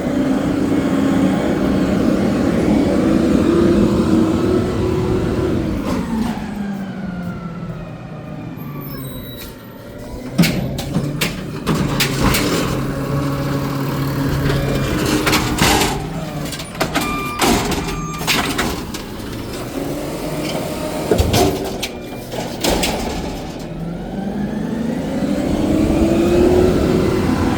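Garbage truck's diesel engine revving up and holding at high speed, then dropping back to idle. While it idles there is a run of sharp clanks and bangs, and near the end it revs up again. This rev-up pattern is typical of a refuse truck throttling up to drive its lift and packer hydraulics.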